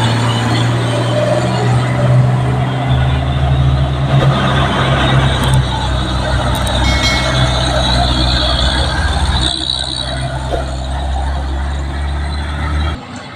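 Heavy truck engine pulling slowly up a steep grade, a loud steady low drone with road and mechanical noise over it; the sound drops off suddenly near the end.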